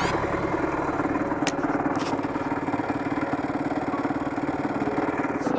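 Dirt bike engine running at a steady speed, an even pulsing note that holds without revving up or down.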